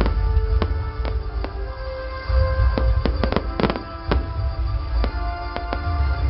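Rapid, irregular sharp pops and crackles over music with held notes and a steady low rumble.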